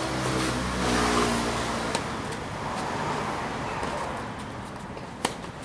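A motor vehicle's engine running close by, humming louder about a second in and then fading away. Sharp tennis-ball strikes off a racquet come about two seconds in and again near the end.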